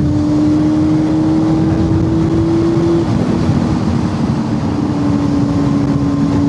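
Motorcycle engine running steadily while riding, its note climbing slowly and then dropping a little about three seconds in, under a constant rush of wind and road noise.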